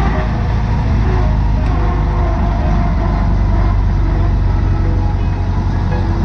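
1925 Chevrolet Superior Series K's 171 cu in four-cylinder engine running steadily while the car drives along, with a heavy low rumble of road and wind noise.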